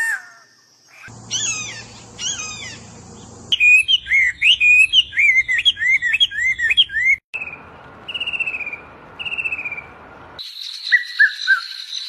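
Songs of several different birds spliced one after another. First comes a short run of quick rising-and-falling whistled notes, then a fast, varied song of repeated whistled phrases, then three drawn-out descending whistles. About ten seconds in, three quick descending notes sound over a steady high whine.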